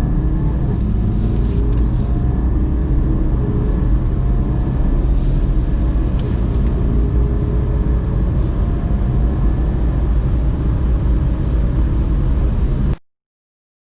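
Car engine under full acceleration in a 0–100 km/h run, its pitch climbing again and again as it pulls through the gears, with road rumble beneath. It cuts off suddenly near the end.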